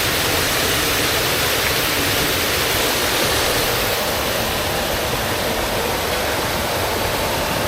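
Mountain stream rushing over rocks, a steady hiss of water.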